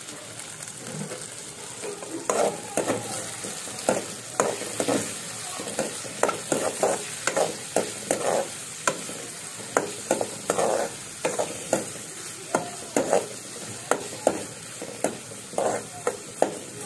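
Onion, garlic, green chillies and bay leaves sizzling as they fry in an aluminium karai. From about two seconds in, a metal spoon scrapes and knocks against the pan in repeated stirring strokes, one or two a second.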